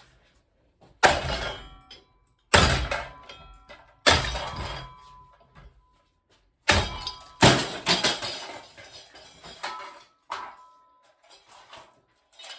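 A cheap Seasons ceiling fan being struck hard, about six loud metallic blows with uneven gaps, each ringing briefly as the metal housing and parts rattle.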